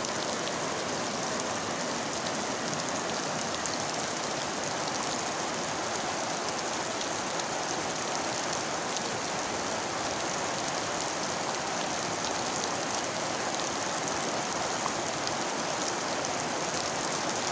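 Rain falling steadily: an even hiss with faint scattered ticks of drops striking.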